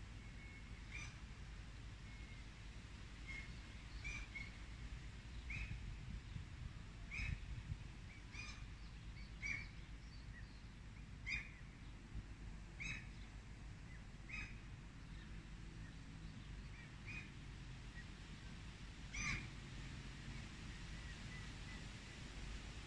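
A songbird repeating a short call note, about a dozen times at intervals of a second or two, with a low rumble underneath.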